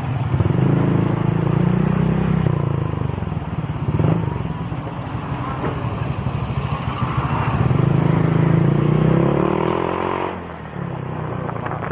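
Honda Click scooter's single-cylinder engine through an aftermarket exhaust pipe, opened up twice, with the throttle easing off sharply about ten seconds in.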